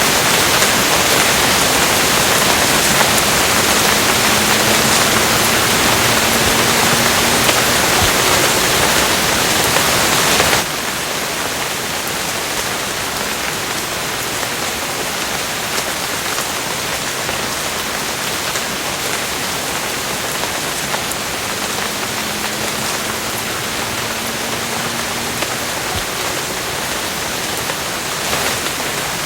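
Steady rainfall, a dense even hiss of falling rain. About ten seconds in it drops suddenly to a somewhat quieter, softer level and carries on steadily.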